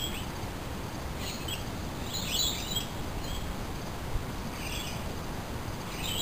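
Small birds chirping in short calls, a handful of times, over a steady low background hum of outdoor noise.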